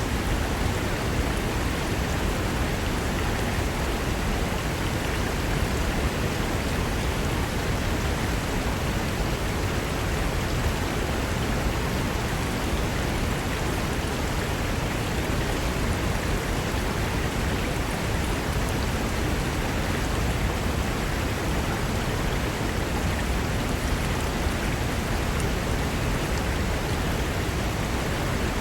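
Fast mountain river rushing over rocks, a steady, unbroken roar of water.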